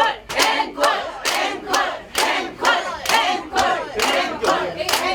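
A group of people chanting and shouting together in rhythm, with sharp strokes on the beat a little more than twice a second, like hand claps.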